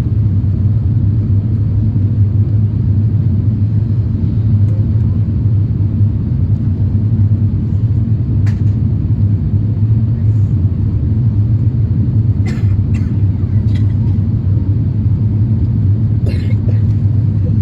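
Steady low rumble inside an Airbus A350-1000 airliner's cabin: engine and airflow noise, even throughout. A few faint short clicks are heard in the second half.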